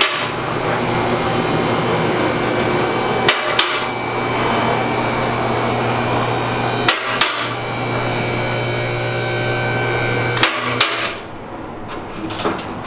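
Vehicle lift's electric hydraulic pump running steadily as it raises the truck, with a pair of sharp metallic clacks about every three and a half seconds as the lift's safety latches pass each notch. The pump stops about eleven seconds in.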